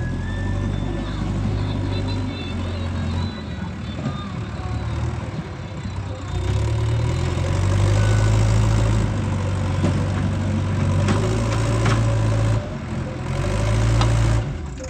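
Diesel engine of heavy earth-moving machinery running, with a steady low drone that shifts in level in blocks. It breaks off abruptly twice near the end.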